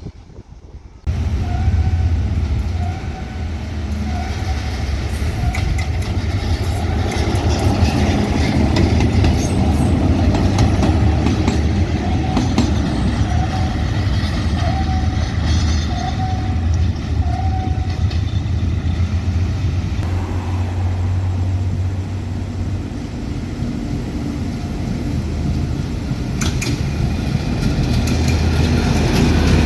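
Diesel-hauled train running close by, with a steady low engine hum and rolling noise. Short squeaks repeat through the first half.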